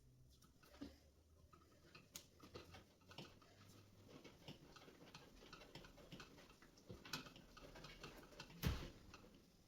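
Faint, scattered clicks and taps of hands and tools working on a washing machine, with one louder knock near the end.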